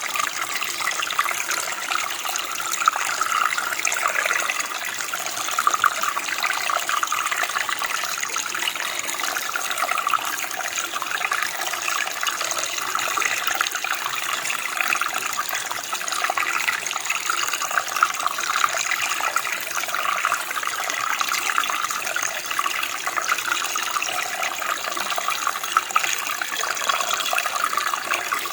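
Running water flowing steadily, a continuous bubbling rush like a stream or small cascade.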